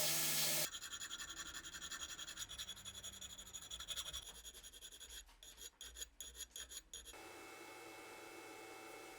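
A loud steady hiss cuts off just under a second in. Quick, irregular scratching strokes of hand scrubbing on metal follow and stop about seven seconds in, leaving a faint steady hum.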